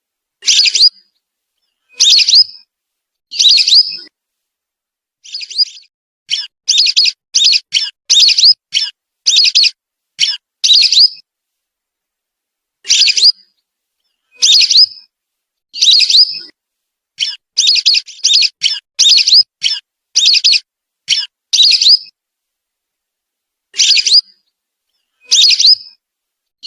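Whistling duck calls played as a bird lure: short, high whistles, some single at about one-and-a-half-second gaps and others in quick runs of four to six.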